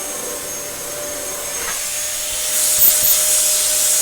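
Dyson DC07 bagless upright vacuum cleaner running with a steady motor whine; about two and a half seconds in, a louder, brighter hiss joins it.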